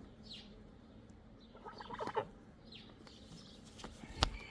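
Faint calls from farmyard poultry: a few short, high, falling chirps and soft clucks. A single sharp tap near the end.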